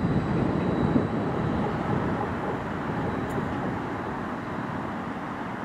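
Transport for Wales Class 231 diesel multiple unit running on curved track, its engine and wheel noise fading gradually as it moves away. A faint high whine fades out in the first second and a half.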